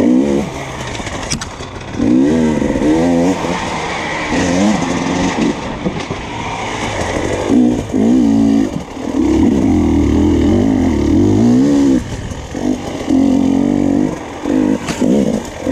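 Enduro dirt bike engine revving in repeated bursts as the throttle is opened and rolled off, its pitch rising and falling, with one longer pull of about three seconds near the middle. A single sharp knock near the end.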